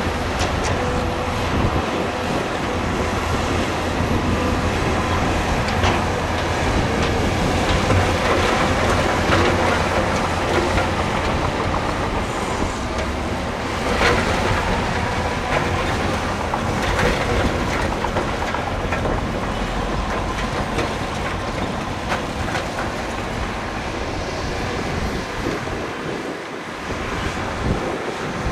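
Crawler bulldozer working: its diesel engine runs steadily under a continuous metallic clatter from the steel tracks.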